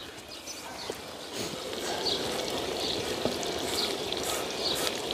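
Potatoes and mushrooms in a creamy sauce sizzling and bubbling in a frying pan as a steady crackling hiss, which gets louder about a second and a half in.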